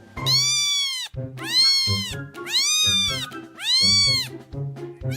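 A cat meowing four times in a row, each meow about a second long and rising then falling in pitch, over background music.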